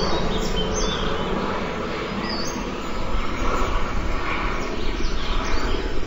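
Several short, high, down-slurred songbird chirps over a loud, steady low rumble.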